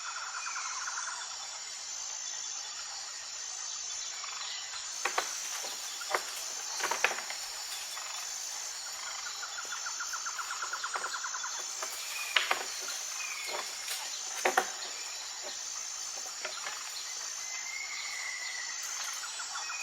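A steady, high insect chorus, cricket-like, runs throughout. A short pulsed animal call comes in about every nine seconds. A handful of sharp clicks or snaps fall in the middle stretch and are the loudest sounds.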